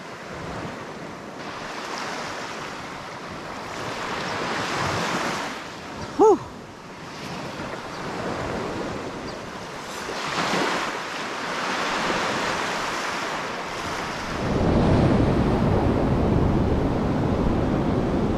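Sea waves washing onto a sandy beach, the rush swelling and fading every few seconds. Near the end it turns into a louder, deeper steady rush of surf with wind buffeting the microphone.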